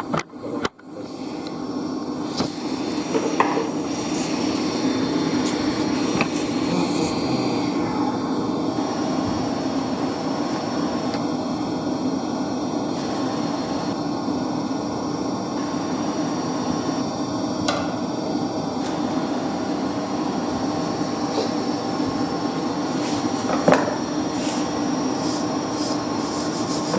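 Steady low mechanical hum of running machinery, with a few light clicks and knocks of hand tools; the loudest knock comes near the end.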